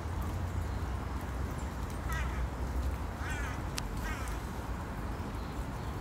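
Three short, harsh bird calls, each a quick wavering note, about two, three and four seconds in, with a few sharp ticks, over a steady low rumble.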